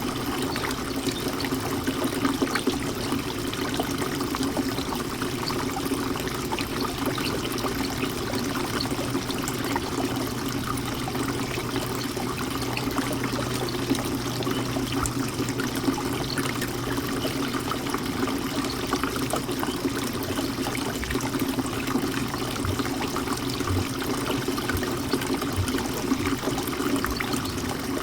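Birdbath fountain water trickling and splashing steadily.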